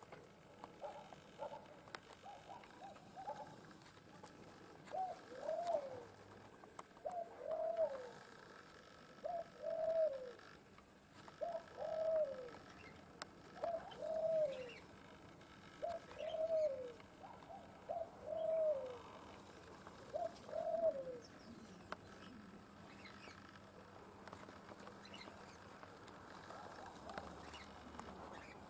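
A bird calling: a few quick short notes at the start, then a run of about eight similar calls, each one short and falling in pitch, roughly one every two seconds, ending a little past the middle.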